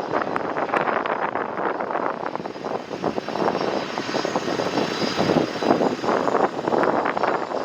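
A jet airliner's engines rushing steadily, with a faint high whine, mixed with gusty wind buffeting the microphone.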